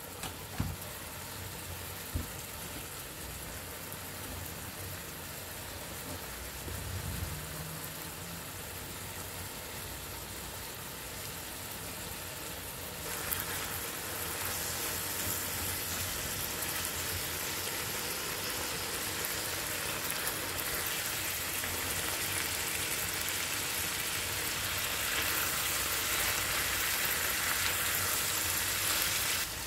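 Diced chicken sizzling and frying in a pan, a steady hiss that gets louder about halfway through, with a couple of sharp clicks near the start.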